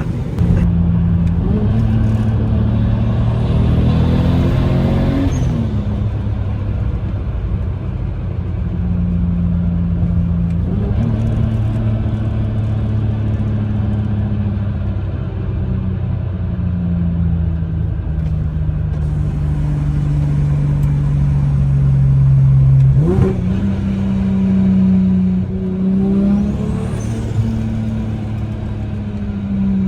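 Straight-piped, single-turbo BMW N54 inline-six running under way, loud and droning. The revs rise and fall with steps around five and eleven seconds in, hold steady for a long stretch, then jump sharply about twenty-three seconds in.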